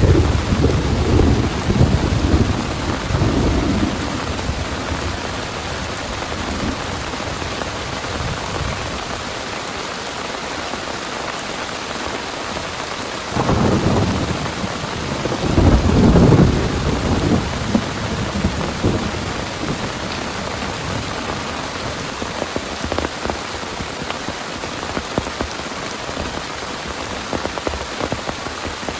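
Heavy rain pouring steadily, with thunder rumbling twice: once at the start and again about halfway through.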